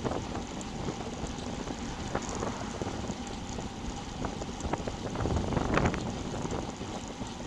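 Wind buffeting the microphone of a bike-mounted camera on a moving road bicycle: a steady rushing noise with scattered small clicks and rattles.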